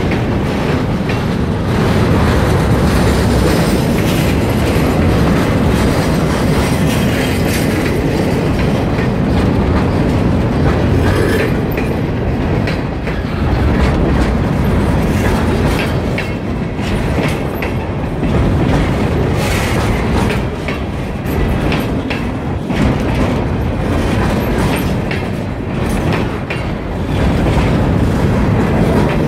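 Freight train cars, covered hoppers and boxcars, rolling past at close range. A steady rumble runs under the clicking and clacking of steel wheels over the rail joints.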